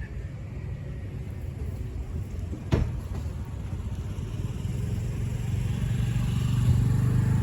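Low rumble of a motor vehicle's engine that grows louder over the last couple of seconds as it draws near, with one sharp knock about three seconds in.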